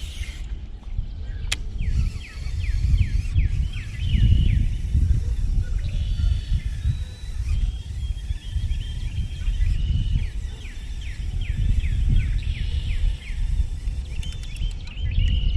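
Wind buffeting the microphone in uneven gusts, with a songbird singing rapid series of quick falling chirps.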